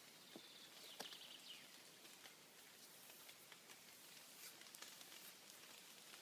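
Near silence with faint, scattered small ticks and crackles over a soft hiss; one louder click about a second in.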